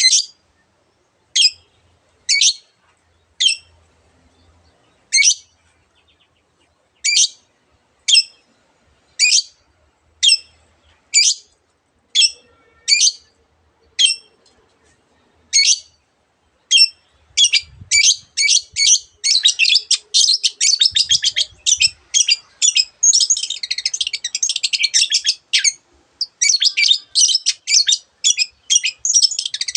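Long-tailed shrike singing: separate sharp, scratchy notes about one a second at first, quickening past the middle into a fast, dense run of chattering notes.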